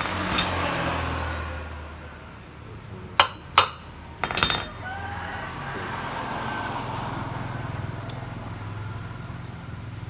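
Hard objects clinking and knocking: a few sharp clicks, a quick pair about three seconds in, then a short rattling cluster, over a steady low hum.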